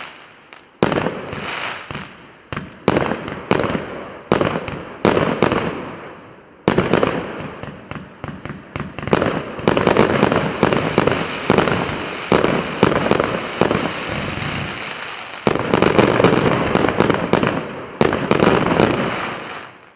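A 72-shot, 1.2-inch firework cake firing its shots in quick succession, each a sharp report followed by a fading noisy tail. The shots come about one or two a second at first, then crowd together into a dense volley near the end before stopping.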